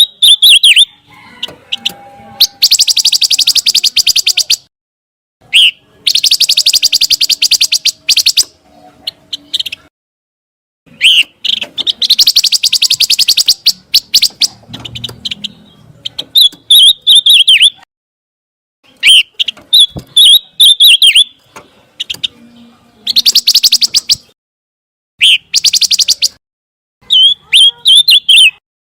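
Song of a pancawarna, the bird the Indonesian songbird trade sells under that name, in repeated phrases with short pauses between them. Fast, dense, rattling trills alternate with bursts of high, wavering chirps.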